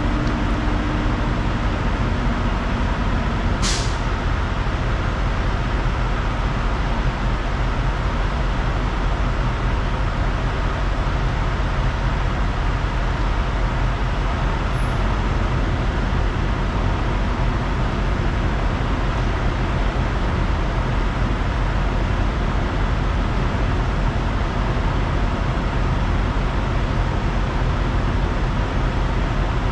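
Semi truck running steadily, a constant low engine and road drone, with one brief sharp hiss of air about four seconds in.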